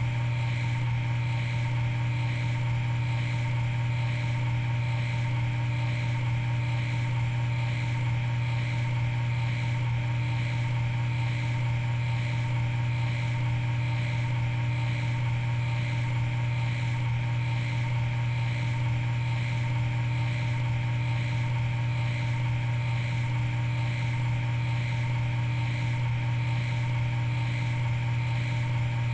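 Steady machine hum from running shop machinery: a strong low drone with a few fainter steady higher tones, unchanging throughout, with no cutting noise or knocks.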